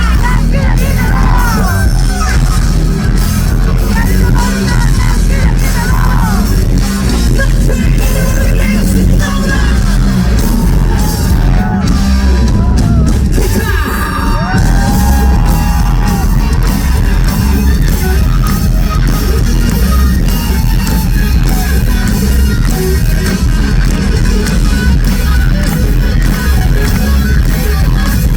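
Live rock band playing loudly through a passage without lyrics: drums, bass and electric guitar, with yelling and wordless cries over the music.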